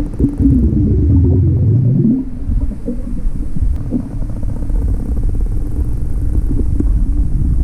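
Motorboat engine running with a loud low rumble of wind and water; a wavering tone rises and falls over the first two seconds.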